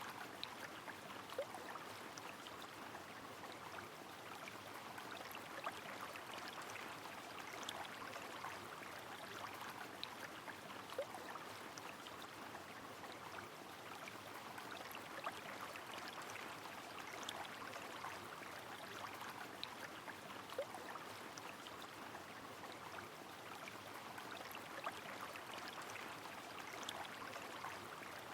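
A river running steadily under rain, with scattered small drops and an occasional short water plink.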